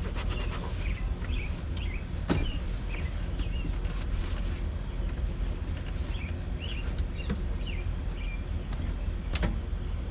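Steady low rumble with small birds chirping on and off and two sharp clicks, one about two seconds in and one near the end.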